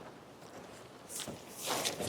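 Faint rustling, with a couple of soft scuffs about a second in and near the end.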